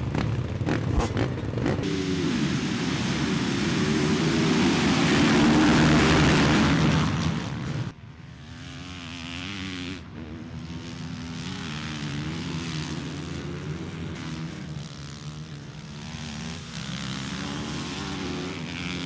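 Motocross bikes racing, engines revving up and down; the loud, close pass in the first several seconds cuts off suddenly, giving way to quieter, more distant engines.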